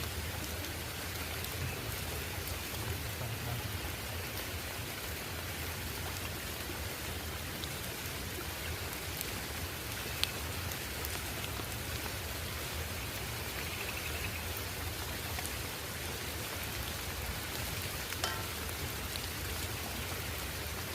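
Steady rain falling, an even hiss with a few single sharp drips or taps, one about ten seconds in and another near eighteen seconds.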